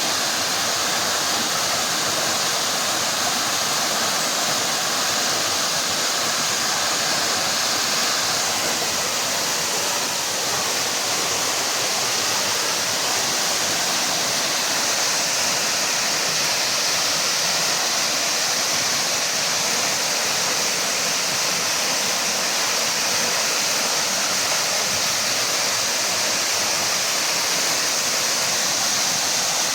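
Waterfall pouring: a steady rush of falling water with a strong hiss.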